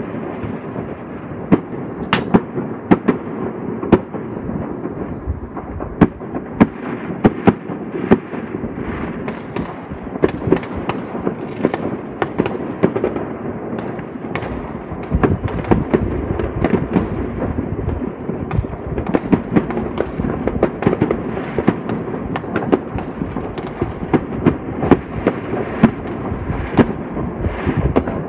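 Many fireworks going off at once: a dense, irregular string of bangs and pops, several a second, over a steady background rumble.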